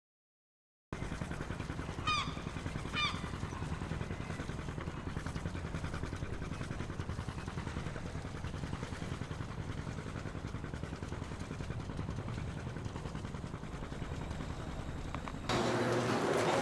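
A steady low mechanical rumble with a fast, even flutter. Two short chirping calls about a second apart come early, and the sound gets louder shortly before the end.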